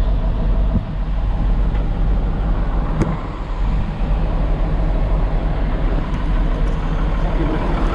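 Nissan CK 31 L truck's diesel engine idling with a steady low rumble, with a sharp click about three seconds in.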